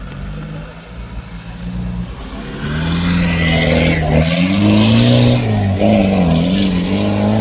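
Car engine running, then much louder from about three seconds in, revving up and down with the pitch rising and falling.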